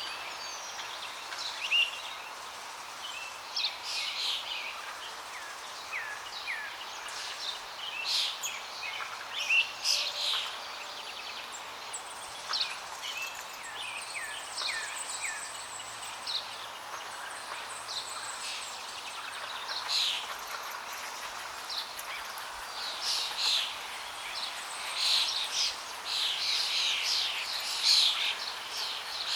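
Several birds chirping and singing over a steady rush of flowing water, the calls coming thickest near the end.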